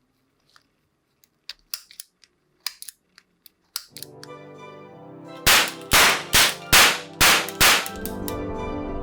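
Mubis blank-firing starter pistol being handled and loaded with a few small metal clicks, then fired six times in quick succession, about two to three shots a second.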